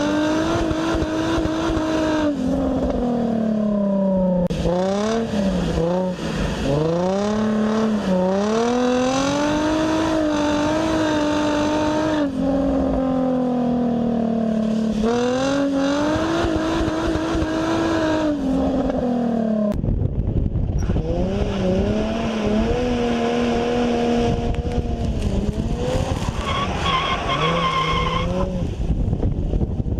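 2004 Nissan 350Z's 3.5-litre VQ35DE V6 through a resonator-deleted exhaust with the stock muffler, revving up and down repeatedly as the car is drifted, with tyre squeal. About two-thirds of the way through, a heavy low rumbling noise comes in and the engine holds a steadier, lower pitch.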